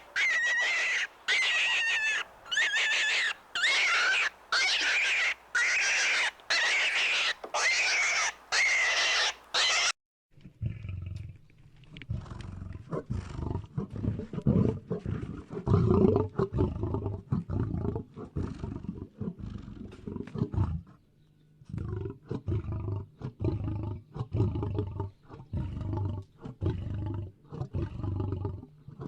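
A run of about ten short, high-pitched animal calls, evenly spaced, then about ten seconds in a switch to a lion growling and roaring in rough, low, pulsing bouts until the end.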